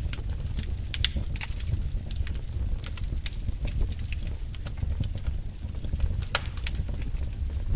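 Fire burning in a fireplace, crackling with irregular sharp pops over a low, steady rumble.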